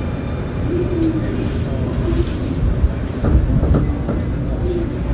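Keio 9000 series electric train running, heard from inside the car: a steady rumble of wheels and motors, with a few knocks around three and a half seconds in.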